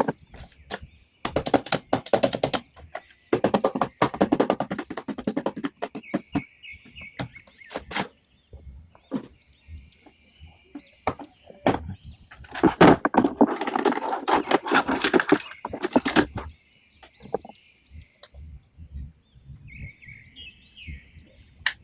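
Plastic toy packaging crinkling and crackling as it is handled, in three bursts of dense crackle with light knocks between; the longest burst comes about twelve seconds in and lasts about four seconds.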